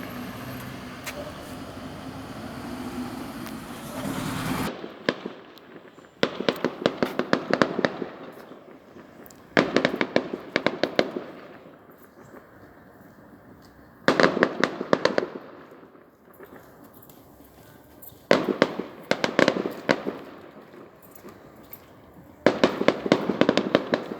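Fireworks display: about five volleys of rapid crackling reports, each lasting a second or two and coming every few seconds. The first few seconds hold only steady background noise, which cuts off abruptly.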